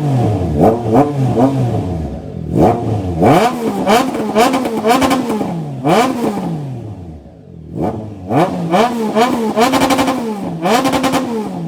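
Triumph Trident 660's inline three-cylinder engine revved hard through an aftermarket full exhaust system, its note climbing and falling back with each throttle blip, with sharp crackles. Two long climbs stand out, one in the first half and one in the second.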